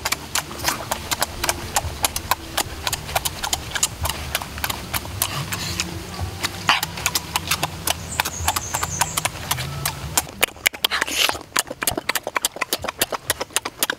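Close-up open-mouthed chewing of cooked duck egg: a fast run of wet lip-smacking clicks, several a second.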